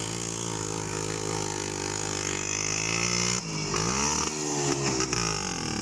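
IZH Planeta motorcycle's two-stroke engine running under load in snow, holding a steady pitch at first. About three seconds in, the revs drop and climb again, wavering as it works.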